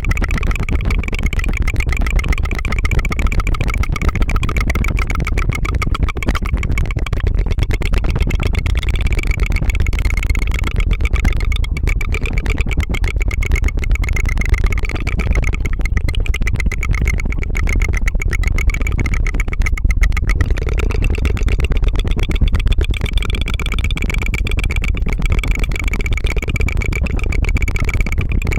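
ASMR tongue fluttering: a rapid, unbroken flutter of the tongue, a steady rattling buzz much like a small engine idling.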